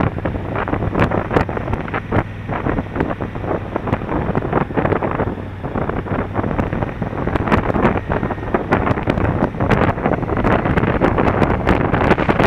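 Heavy wind buffeting on an action camera's microphone while riding a motorcycle, gusting unevenly, with the steady low drone of the Honda Africa Twin CRF1000L's parallel-twin engine underneath.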